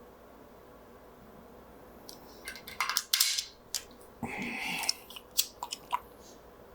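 Sharp clicks and short scrapes of hard parts being handled and worked, with one longer scrape about four seconds in, from fitting a rifle's wooden stock and metal parts by hand.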